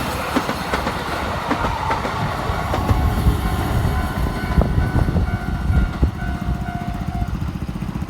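Eight-car Keikyu electric train passing, its wheels clattering over the rail joints in a quick run of thumps. The clatter is heaviest in the middle and eases off near the end.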